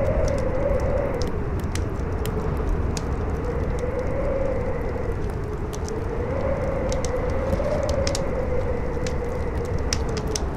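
Howling wind whose whistling pitch slowly rises and falls over a low rumble, layered with the crackle of a burning fire: many small, sharp pops at irregular intervals.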